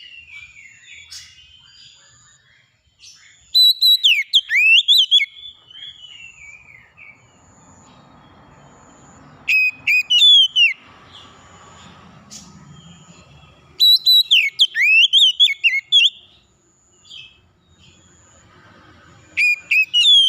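Songbird singing loud whistled phrases of quick rising and falling notes, in bursts of a second or two about every five seconds. A faint, evenly repeated high pip runs between the phrases.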